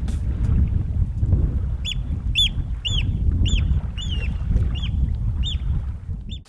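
A bird calls in a run of about eight short, clear, arched calls, roughly two a second, over a steady low rumble.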